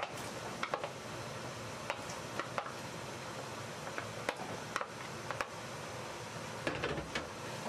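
Minced mutton sizzling steadily in a pot while chopped tomatoes are scraped off a plate into it, with a dozen or so sharp taps and clicks of the spoon against the plate and pot.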